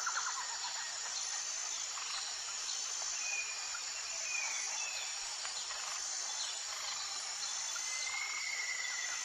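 Tropical forest ambience: a steady high-pitched insect chorus, with a few short bird whistles and one longer whistled note near the end.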